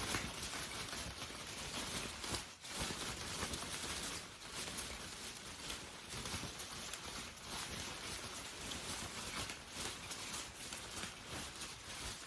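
Steady rain falling, a dense irregular patter of drops.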